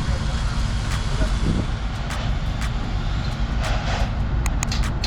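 Steady engine and road rumble of a moving vehicle, with a few faint clicks.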